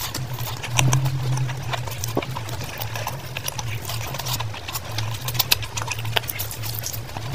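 Close-miked wet chewing and lip-smacking of a mouthful of fried rice and chicken, a quick irregular run of sharp smacks and clicks over a low steady hum.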